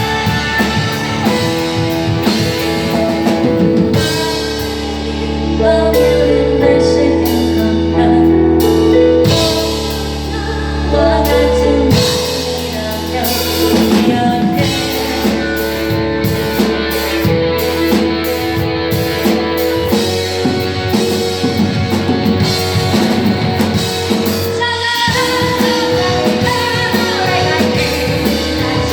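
Live rock band playing: electric guitar, bass and drum kit, with a singer. Around the middle the band holds long sustained chords over a low bass note, then the drums and guitar pick back up.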